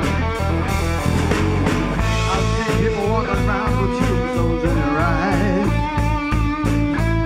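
Rock band playing: electric guitar over bass and a steady drum beat. Some held notes bend and waver from about three to six seconds in.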